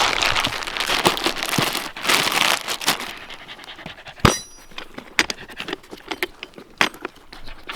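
Rustling and crinkling as the geocache's log books and trinkets are packed back into the container, with scattered sharp clicks; the loudest is a snap with a short metallic ring about four seconds in. A dog pants close by through the first few seconds.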